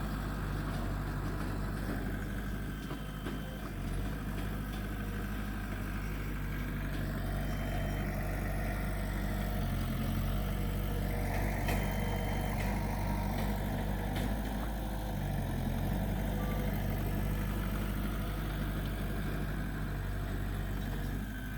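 Heavy earthmoving machine's diesel engine running steadily, with a somewhat fuller, noisier stretch around the middle.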